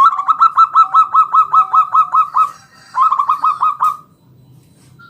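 Zebra dove (perkutut) cooing: a fast run of short, clipped notes, about six a second, lasting about two and a half seconds, then after a short pause a briefer run that stops about four seconds in.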